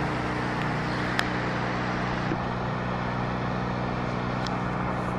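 Steady engine hum with a haze of running noise, like a vehicle engine heard while driving; a single short click about a second in.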